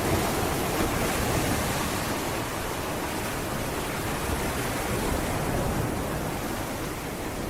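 Sea waves washing onto a beach: a steady rush of surf, a little fuller at first and easing slightly toward the end.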